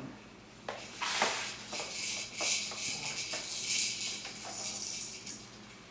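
Plastic toy parts on a baby's activity center clicking and clattering as they are batted and shaken. From about two seconds in, a steady hiss-like electronic sound comes from the toy.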